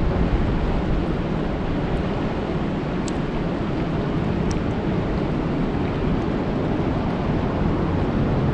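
Steady rain falling on a lake: a dense, even hiss with a deep rumble underneath, and a few sharp ticks of single drops.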